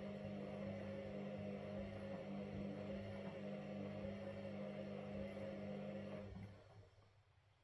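Washing machine running with a steady motor hum, which dies away and stops about six seconds in.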